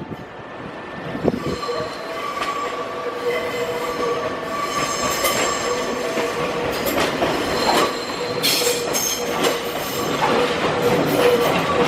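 Nankai electric train running through the station, its wheels squealing on the rails in steady high tones, with scattered sharp clicks from the wheels passing over rail joints.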